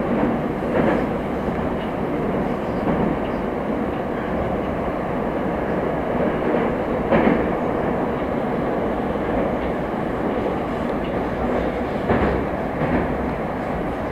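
Moscow Metro train running between stations: a steady rumble of wheels on the rails, with a few sharper clacks about a second in, about seven seconds in and twice near the end.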